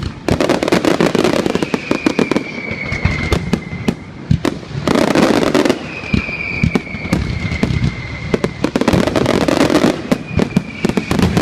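Fireworks display: a rapid string of bangs and crackles, thickening into dense volleys about halfway through and near the end. A high whistle that slides slightly down sounds about three times over the din.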